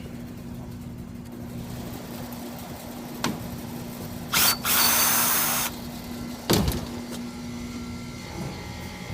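Steady hum with work noises: a click, then about four seconds in a loud hissing whir lasting a second and a half, typical of a power tool such as a cordless drill, and a heavy knock a second later.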